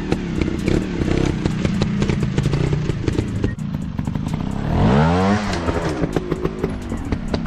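Dirt bike engine running at low revs, then revved up and back down once about five seconds in, and rising again near the end. Sharp clicks and clatter run through it.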